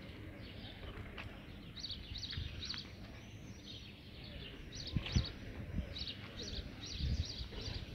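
Small birds chirping, short high chirps repeated many times, over steady low background noise, with a few dull low thumps about five and seven seconds in.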